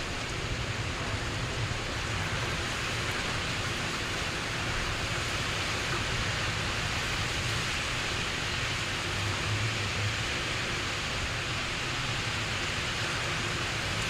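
Steady rain falling, with a low rumble of wind underneath.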